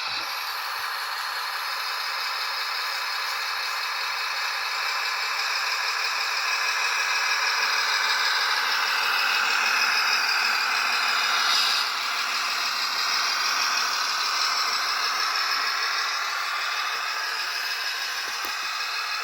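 Cross RC HC6 radio-controlled truck's electric motor and gearbox whining and rattling as it drives, the pitch rising and falling with speed. It grows louder toward the middle and drops off suddenly about twelve seconds in.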